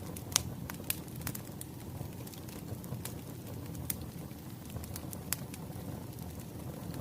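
Burning firewood crackling: a steady low rush of flame with irregular sharp pops and snaps, the loudest about half a second in.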